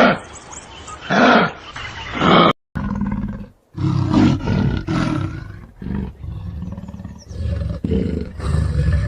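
Animal calls: three loud calls about a second apart, then, after an abrupt cut, a longer run of deeper calls.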